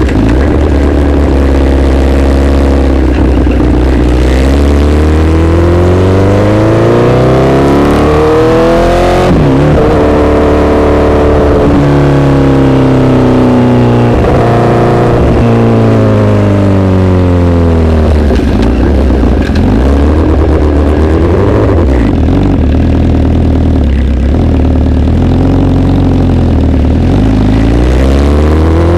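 Honda CBR1000RR inline-four engine through an SC-Project aftermarket exhaust, ridden with the revs climbing and falling over several seconds at a time, with an abrupt change in pitch about nine seconds in.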